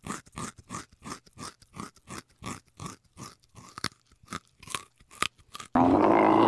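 A rabbit chewing dry food, a quick, even run of crisp crunches about four a second. Near the end it gives way abruptly to a camel's loud, drawn-out bellow.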